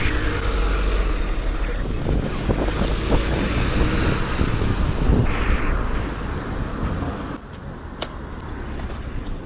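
Road traffic: a car passing close by over a steady low rumble. The noise drops off about seven seconds in, and one sharp click follows shortly after.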